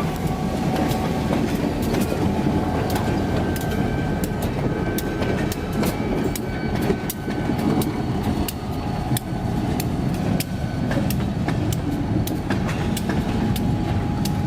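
Freight train cars rolling past, with a steady rumble and steel wheels clicking sharply and irregularly over the rail joints.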